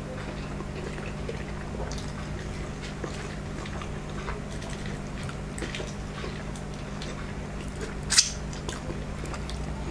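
Close-up eating sounds: noodles being chewed with small wet mouth clicks over a steady low hum, and one sharp wet smack about eight seconds in as sauce is sucked off the fingers.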